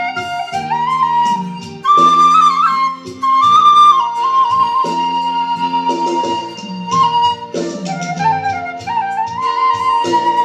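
Thai khlui bamboo flute playing a slow, ornamented melody with trills and slides between notes, over a backing accompaniment of held chords and bass notes.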